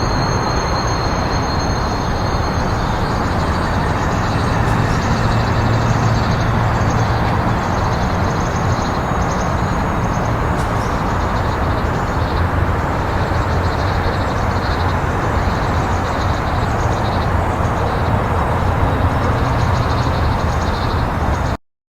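Freight train rolling past, with a steady loud rumble of wheels on rail. A faint high ringing fades out over the first few seconds, and the sound cuts off abruptly near the end.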